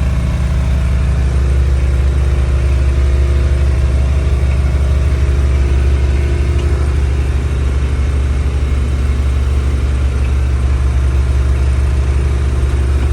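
A motor vehicle's engine running steadily, a loud, even low drone.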